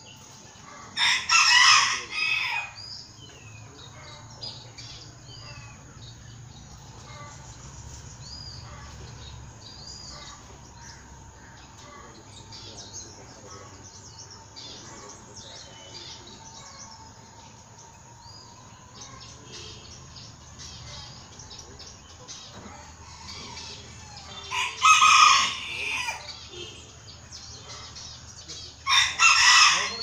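A bird calling loudly three times, each call lasting about a second and a half: once near the start and twice near the end. Soft, short chirps of small birds run in between.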